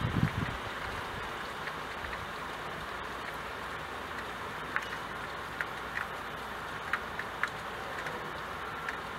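Steady hiss of rain falling, with scattered sharp ticks of drops striking the window glass in the second half. A brief low rumble of wind on the microphone right at the start.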